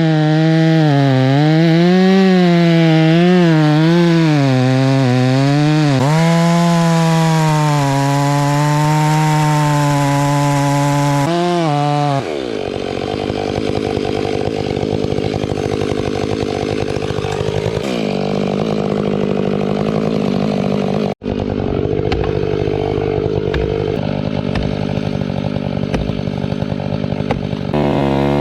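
Large chainsaw running at high revs, its pitch wavering, then dropping and turning rougher about twelve seconds in as it works into the trunk of a fir tree for the face cut; the pitch climbs again near the end.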